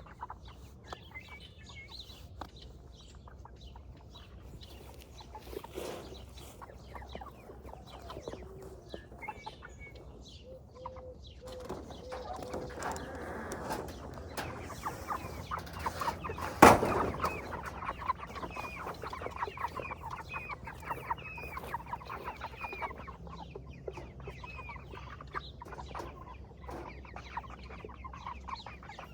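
A flock of Cornish cross meat chickens, about six and a half weeks old, clucking and peeping steadily, with one sharp knock a little past halfway.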